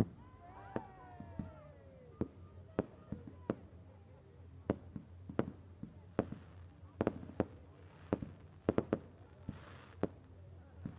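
Fireworks going off: a run of sharp bangs and cracks at irregular intervals, some coming in quick clusters.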